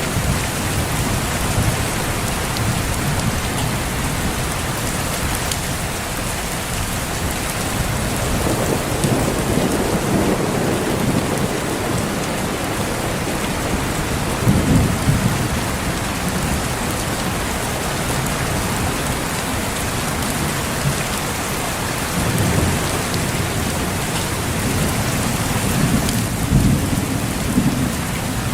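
Steady heavy rain falling on foliage in a thunderstorm, with low rolls of distant thunder rumbling through several times.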